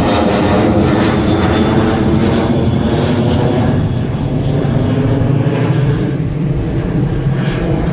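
Airliner's engines running at takeoff power, a loud steady noise with several steady tones through it. The higher part of the sound fades from about halfway through, as the plane draws away.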